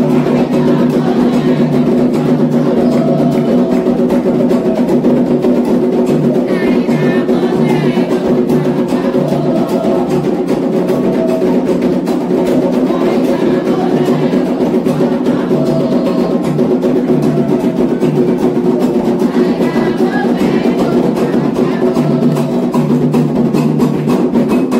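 Candomblé ritual drumming on atabaque hand drums, a dense steady rhythm played without a break and with a clacking, wood-block-like accompaniment. It cuts off abruptly at the end.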